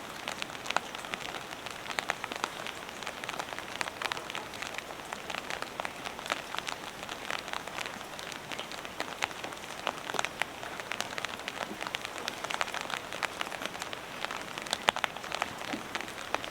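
Heavy rain falling steadily, with frequent sharp individual drops and drips striking among the constant hiss.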